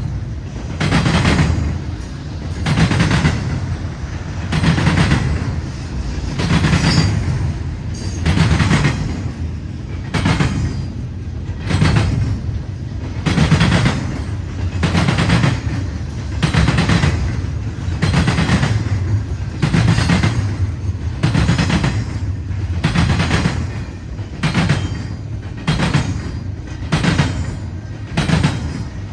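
A CN freight train's cars rolling past. The wheels clack sharply over the rail joints in a steady rhythm of about one clack a second, over a continuous low rumble.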